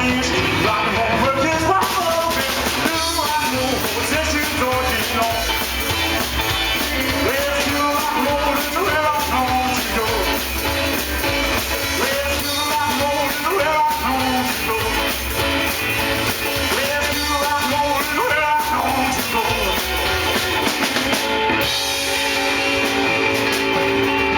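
Live rockabilly band playing: a vocal melody over drum kit, bass and guitar. Near the end the drums stop and a guitar chord rings on.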